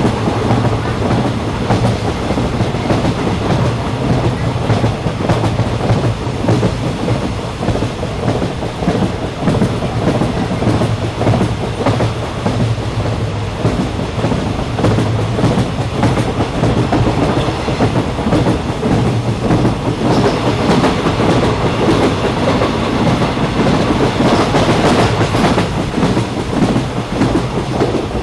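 Train running along the track, heard from on board: a steady rumble with a low hum and the wheels clicking over the rails.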